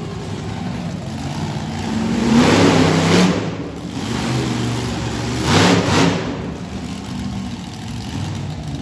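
Monster truck engine running and revving, with two louder surges about two and a half and six seconds in.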